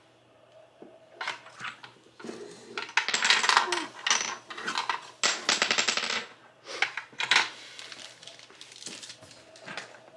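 Small toy worm pieces clattering and rattling against a toddler's woodpecker feeding toy, in scattered clicks with two longer runs of rapid rattling, about three and about five to six seconds in.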